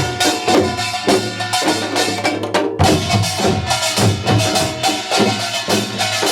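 Korean pungmul percussion ensemble playing together: fast, steady drum and gong strokes in a driving rhythm, with a brief break a little under three seconds in before it carries on.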